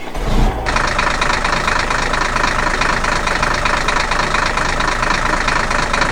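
An engine running at a steady pace with a fast, even beat; the louder, brighter engine noise comes in abruptly under a second in.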